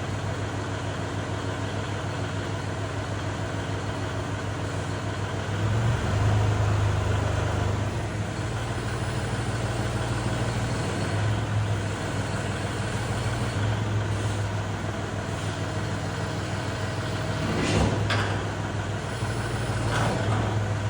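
Kubota tractor's diesel engine running steadily, with the revs raised about six seconds in and again around the middle. Near the end come a couple of sharp metal knocks.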